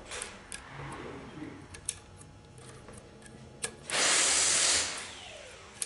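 Light clicks and taps of small metal parts being handled, then a loud hiss of pressurized air or spray, just under a second long, about four seconds in.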